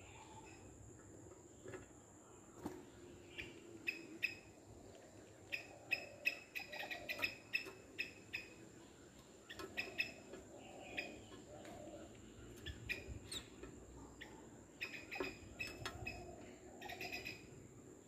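Birds chirping: short, sharp calls in quick runs, busiest from about four to nine seconds in and again around fifteen to seventeen seconds. A faint, steady high-pitched tone sits underneath.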